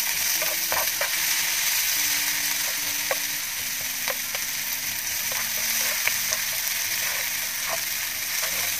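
Chopped onion and garlic sizzling in butter in a nonstick frying pan, a steady hiss, while a plastic spatula stirs and scrapes them, giving scattered light clicks.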